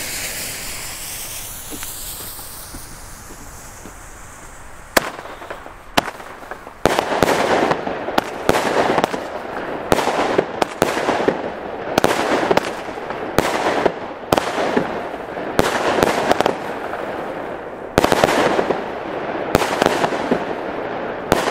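Small consumer firework battery (Lidl/Aldi 'Poison') firing. A few seconds of faint hiss lead to two single sharp cracks, then a run of shots, a couple a second, each bursting with a crackle until the end.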